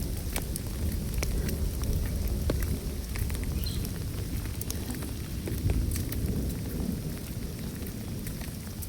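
Rain falling steadily, with many separate drops ticking sharply on surfaces over a constant low rumble.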